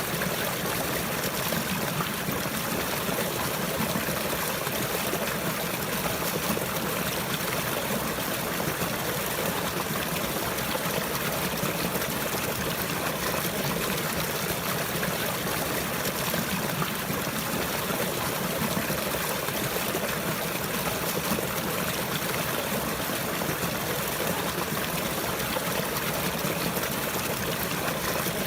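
Running water, trickling and flowing like a stream, in a steady, even rush with no breaks.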